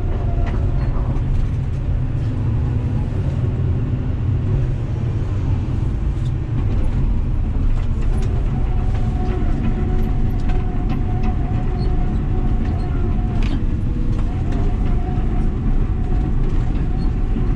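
45-tonne Volvo crawler excavator's diesel engine running steadily under load as the machine tracks slowly over broken stone, crushing and packing it down. A higher steady hum comes in about eight seconds in, dropping out briefly near fourteen seconds, and scattered short cracks and clicks sound over the low engine note.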